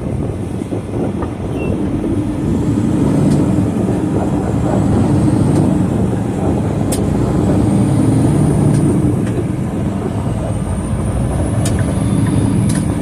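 Semi truck's diesel engine running while driving, heard from inside the cab, getting louder about two seconds in. A faint high whine rises and falls above it.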